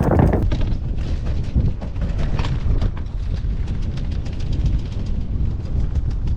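Wind buffeting the microphone on a sailboat: a steady, loud low rumble with crackling throughout.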